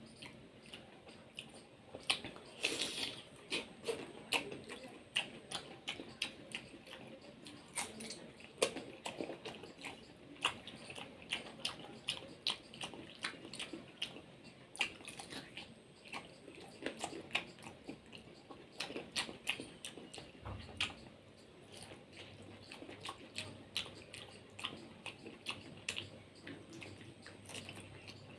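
Close-up mouth sounds of eating soft, juicy toddy palm fruit (ice apple) flesh: irregular wet clicks, smacks and chewing, one or two a second.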